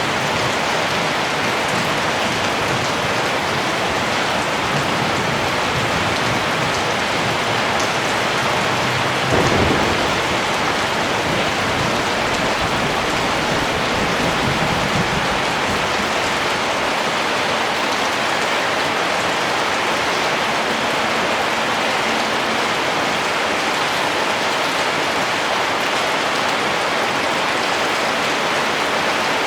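Steady rain falling, an even hiss. About nine seconds in, a low rumble of thunder comes in suddenly and fades away over several seconds.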